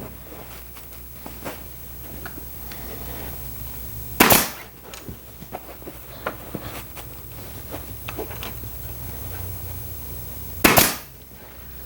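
Upholstery staple gun firing twice, about four seconds in and again near the end, tacking muslin down with temporary staples over horsehair stuffing. Between the shots come small clicks and soft rustling of the cloth being pulled and handled.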